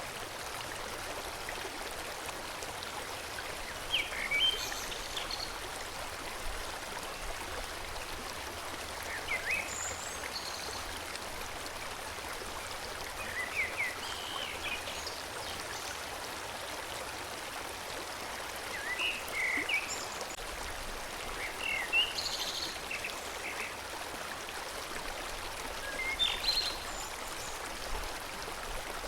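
Forest stream flowing steadily, with bursts of bird chirps every few seconds.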